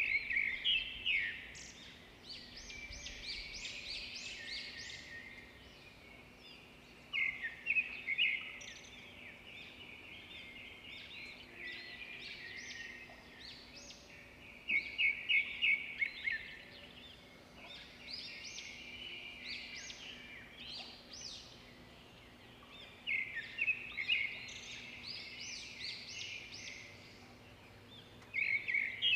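Birdsong: quick chirps and trills in phrases, a louder phrase coming round about every seven or eight seconds with softer chirping in between, over a faint steady background hum.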